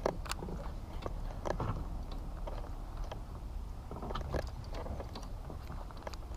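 Scattered light clicks and small knocks of fishing tackle and kayak handling while a jerkbait is cast and worked, over a steady low rumble.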